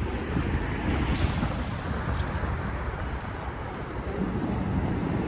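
Gusty wind buffeting the microphone: a low, uneven rumble that swells and eases.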